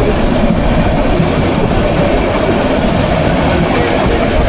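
Bangladesh Railway intercity passenger train running past, a loud, steady rumble of its wheels on the rails.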